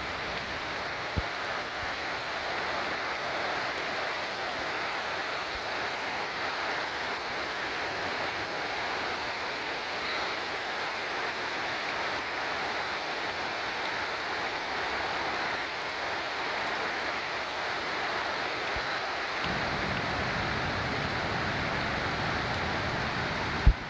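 Steady rushing noise of pouring rain and a flash-flooding stream running high. A deeper rumble joins about three-quarters of the way through, and a sharp knock sounds near the end.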